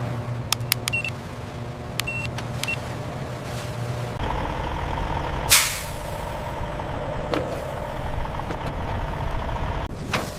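Steady machinery hum with a few sharp clicks and short high beeps in the first three seconds. The running noise deepens about four seconds in, and a loud burst of air hiss comes about five and a half seconds in.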